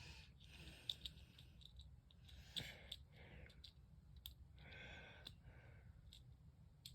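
Near silence, with faint scattered clicks and a soft breathy hiss a little before the middle.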